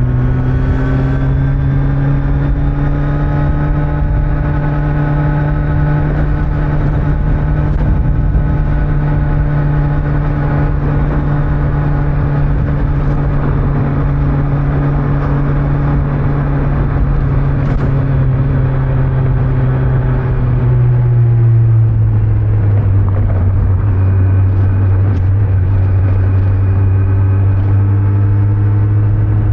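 Kawasaki Z900's inline-four engine running steadily under way, over wind and road noise. About 21 seconds in, its note drops to a lower pitch and holds there.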